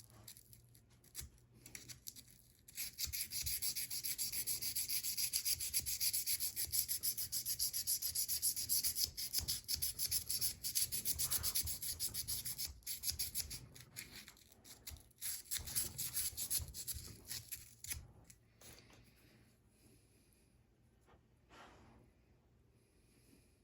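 Folded sandpaper rubbed rapidly up and down by hand on the steel blade of an old Case slimline trapper pocketknife, a fast, even scratching of many short strokes. About three seconds in it gets going, and in the last few seconds it thins to a few scattered, fainter strokes.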